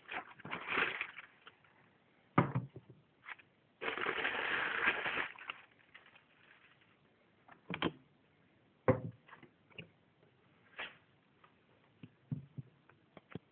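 Shoebox and wrapping paper being handled: two stretches of paper rustling, the longer about four seconds in, and a few sharp knocks and clicks in between.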